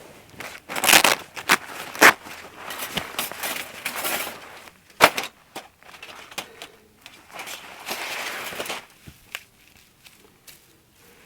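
Irregular rustling and crunching with sharp knocks and clicks, the sound of things being handled at close range; a longer rustle near the end.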